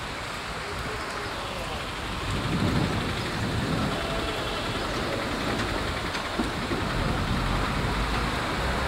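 Steady rain falling on a flooded street, with vehicles swishing through the standing water; the hiss swells about two and a half seconds in.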